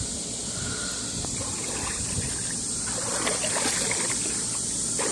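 Light splashing and trickling water as a swimmer in fins and snorkel moves through the water, over a steady hiss. The splashes grow a little busier about three seconds in.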